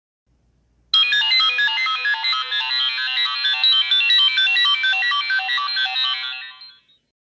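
An iPhone ringtone: a quick, repeating run of bright, chiming electronic notes that starts about a second in and fades out near the end.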